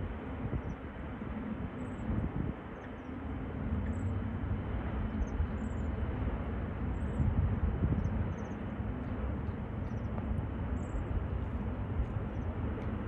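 Jet airliner engines rumbling steadily, a dull roar that swells a little a few seconds in. Short high chirps recur faintly above it.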